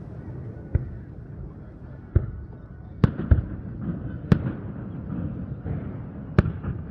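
Fireworks bursting: about six sharp bangs at uneven intervals, the loudest a little after the middle and near the end, over a low background rumble.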